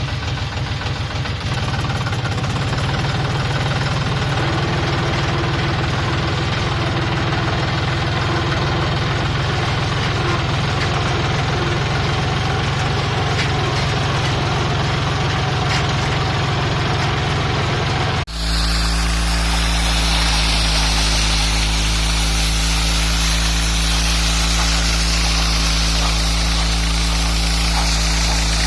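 Soybean thresher machine running steadily under its drive engine. About eighteen seconds in, the sound changes suddenly to a deeper steady hum with a hiss of threshed material over it.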